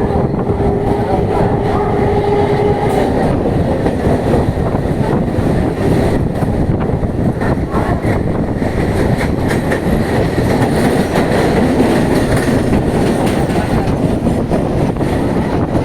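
Suburban local train running fast, heard on board: a steady rumble of wheels on rail with repeated clacks over the rail joints. A steady hum sounds for the first three seconds or so, then stops.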